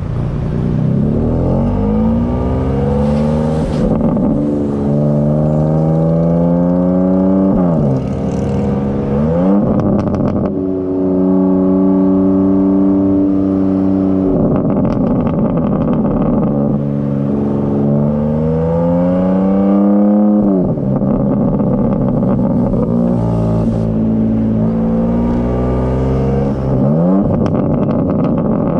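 BMW S58 twin-turbo inline-six of a G82 M4 Competition with downpipes and high-flow cats, accelerating hard. Its pitch climbs and drops sharply at each upshift, about five times, with brief crackles from the exhaust between pulls.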